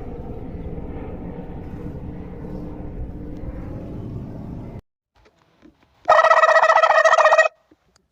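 A steady, engine-like low rumble cuts off suddenly about five seconds in. About a second later comes a loud buzzing sound with several pitches, lasting about a second and a half.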